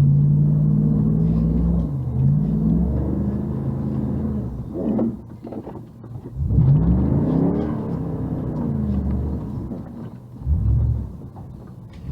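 A vehicle's engine revving up and dropping back several times. It holds steady at first, climbs sharply about two-thirds of the way through and falls away, then gives a short burst near the end.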